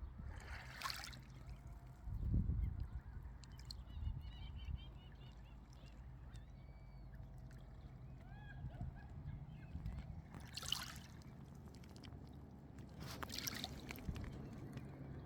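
Calm sea water lapping and washing over a low steady rumble, with short rushing washes about a second in, twice in the last third and at the end. Faint bird calls come in the middle.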